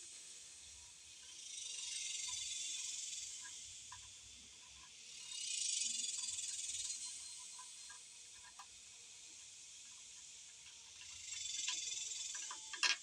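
Insects droning outside, a high hissing buzz that swells and fades three times, with a few faint clicks now and then.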